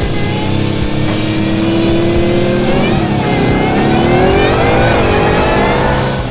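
Supercharged 5.2-litre V8 of a Hennessey-tuned Ford Raptor R accelerating hard, its engine note climbing. The note drops about three seconds in and again near five seconds, as at upshifts, and climbs again after each.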